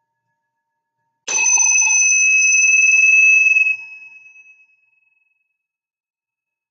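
A small metal bell is struck once. It gives a high, bright ringing tone that holds for about two seconds, then drops off quickly and fades away.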